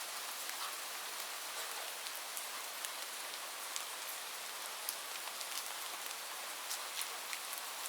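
Heavy rain falling on a roof: a steady hiss with many sharp, separate drop impacts scattered irregularly through it.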